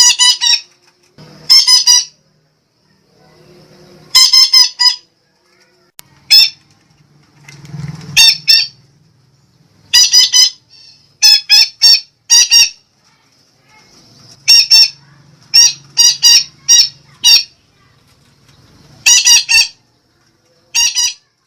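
Red-breasted parakeet (betet) giving loud, harsh squawking calls. The notes come in short clusters of one to four, with a pause of a second or two between clusters.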